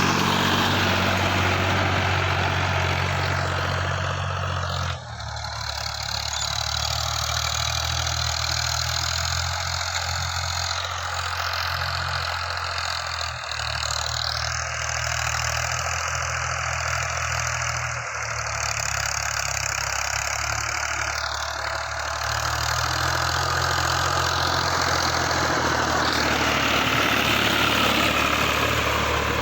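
Tractor engine running steadily at idle, its note shifting slightly about five seconds in.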